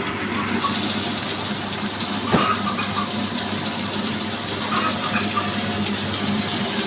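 Petrol engine of a sawmill running steadily, with one sharp knock about two and a half seconds in.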